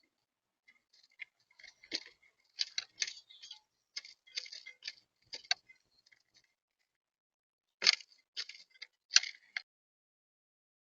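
Eurasian collared doves pecking at seed on a feeder: irregular runs of sharp little clicks and taps, in two bursts with a short pause between.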